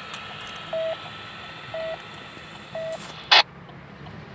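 Short electronic beep repeating about once a second, three times, then a sharp, loud crackle about three seconds in.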